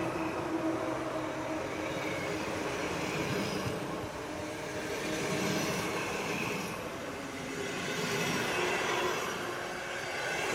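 PKP Intercity passenger coaches rolling past as the train pulls out, a steady rumble of wheels on the rails that swells and fades every few seconds.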